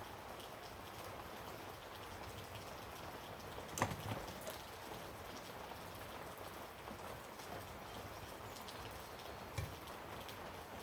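Steady background hiss with a sharp click about four seconds in and a fainter knock near the end, as small parts of a Motorcraft 2100 carburetor are handled during reassembly.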